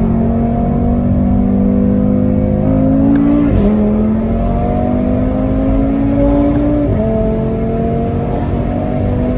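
Straight-piped, stage 2 Audi RS3's turbocharged five-cylinder engine pulling under steady acceleration, its pitch rising slowly. Twice, about three and a half and seven seconds in, the pitch drops suddenly at an upshift.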